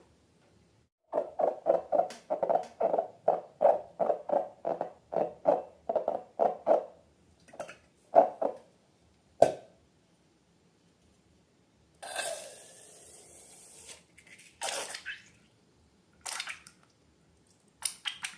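Slime being squeezed and worked by hand, in a quick run of wet squelches about three a second. Then come a few single squelches and a short hissing, squeaky stretch.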